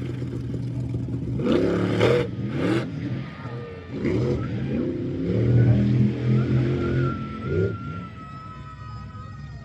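Monster truck engine revving up and down, with two loud bursts about a second and a half and under three seconds in, and a thin high whine in the second half.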